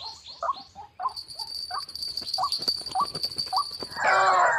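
White-breasted waterhen calling over and over in short rising notes, about two a second, with a steady high whine behind it from about a second in. Near the end a louder, denser chorus of calls starts.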